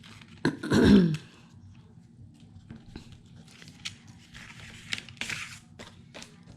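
A short throat sound, falling in pitch, about a second in. Then soft paper rustles and small clicks from cardstock pieces being handled.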